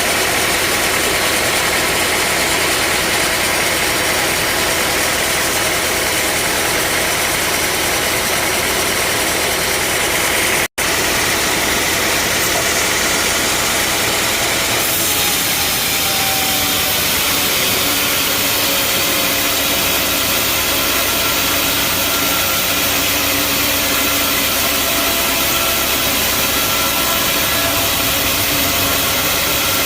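Band sawmill running steadily as it saws a large mahogany log, a continuous loud machine and blade noise. The sound cuts out for an instant about a third of the way in, and its tone shifts about halfway.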